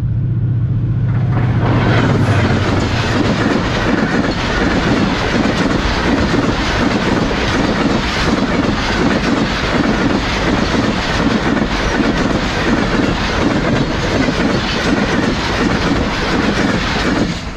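Pakistan Railways express passenger train passing close by at speed. The locomotive's low drone fills the first second or so, then the coaches' wheels clatter over the rails in a fast, steady rhythm until the last coach clears near the end.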